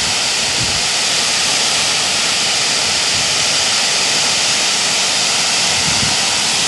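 Fountain water jets shooting high and falling back, a steady loud rushing hiss of spray.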